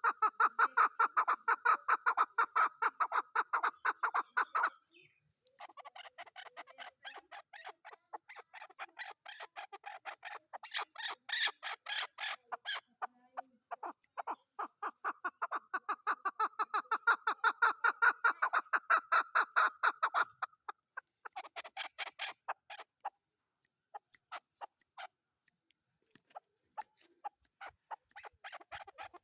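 Chukar partridge calling: long series of rapid, repeated clucking notes in bouts, with short pauses between them.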